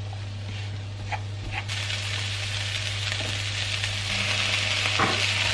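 Chopped onions and garlic sizzling in a hot frying pan as a spatula stirs them, with a few light taps. The sizzle grows louder about four seconds in as blanched green beans are tipped into the pan.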